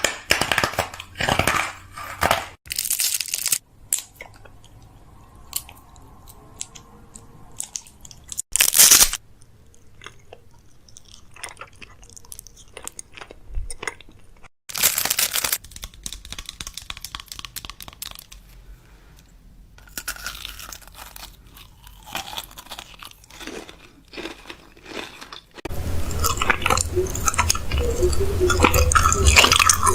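Food packaging and containers being handled while restocking a fridge: irregular bursts of crinkling and crunching plastic with clicks and knocks, quieter stretches between them, and a denser, louder run of handling near the end.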